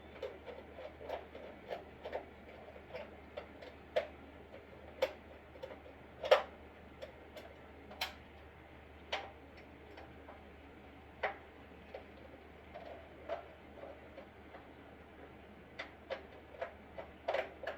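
Irregular light clicks and knocks, spaced unevenly, with one louder knock about six seconds in and a quick cluster near the end.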